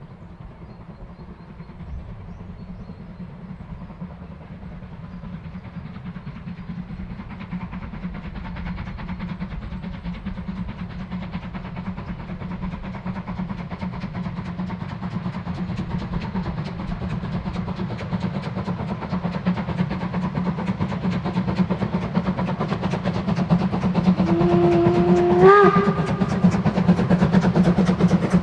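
Narrow-gauge steam locomotive 99 1741-0 approaching while working, its rapid exhaust beats growing steadily louder. Near the end its steam whistle gives one short blast that bends up in pitch before stopping.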